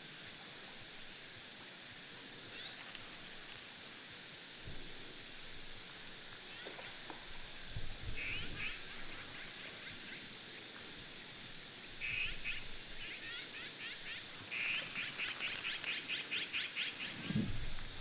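A bird calls in short chirps, then in a quick run of repeated notes near the end, over a steady outdoor hiss. There are a couple of low thuds, one about halfway through and one just before the end.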